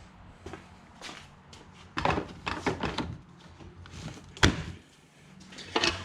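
Clicks and knocks of a Milwaukee M18 cordless table saw and its battery being handled, in short clusters with one sharp knock about four and a half seconds in.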